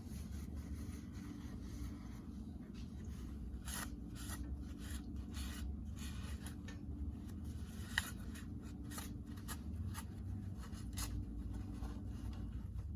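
Irregular scraping and rubbing strokes of hand work on the tractor's engine, with one sharp click about eight seconds in, over a steady low hum.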